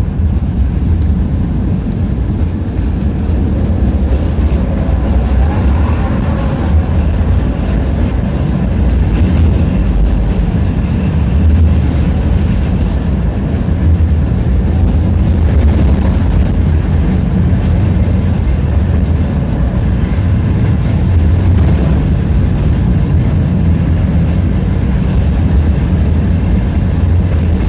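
Tram running along its route, a steady low rumble of the wheels on the rails and the running gear, heard from inside the passenger car.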